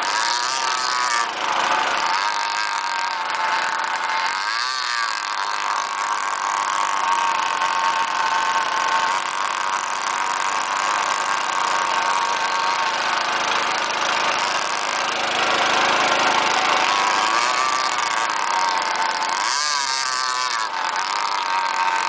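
Small engine of a radio-controlled model boat running at high revs without a break. Its pitch wavers, and it sweeps up and down twice, about five seconds in and again near twenty seconds, as the boat passes close by.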